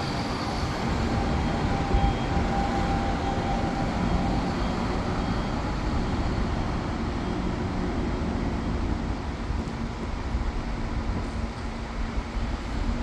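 SMRT C651 electric train running on the rail with a continuous rolling rumble. A steady motor tone fades out in the first few seconds.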